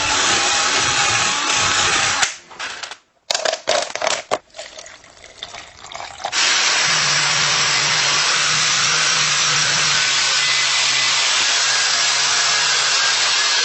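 A motorised tool running with a steady, loud rushing hiss. It stops about two seconds in, giving a few seconds of scattered clicks and knocks, then starts again with a low hum under the hiss.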